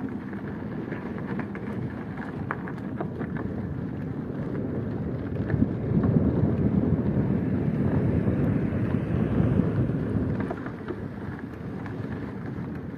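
Wind buffeting the microphone as a low rushing noise, swelling stronger for a few seconds in the middle.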